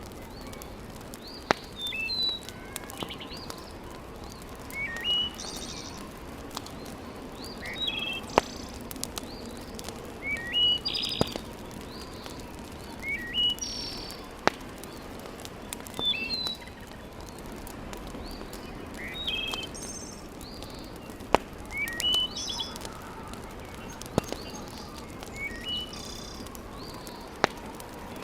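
A songbird repeating short chirping phrases every two to three seconds over the steady low hiss of a wood fire. Now and then a single sharp pop from the burning logs stands out as the loudest sound.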